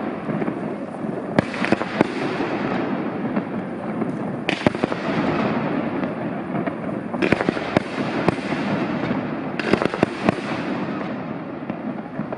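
Fireworks display: aerial shells bursting in sharp bangs every one to three seconds, sometimes two in quick succession. A continuous dense crackle fills the gaps between them.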